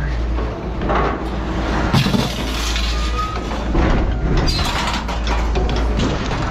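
A heavy engine running steadily, with scattered knocks and clatter of junk being handled.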